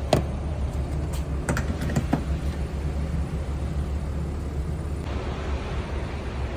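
BMW X5 3.0d driving at highway speed: a steady low rumble of engine and road noise, with a few light clicks in the first two seconds.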